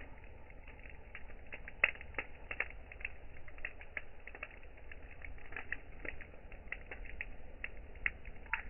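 Campfire burning wood, crackling and popping irregularly several times a second over a low rumble, with one louder pop about two seconds in.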